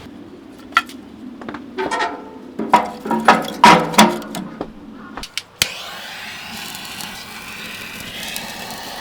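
A run of clicks and knocks from hard objects being handled, several ringing briefly with a pitched tone, thickest in the middle. About five and a half seconds in, it cuts to a steady hiss.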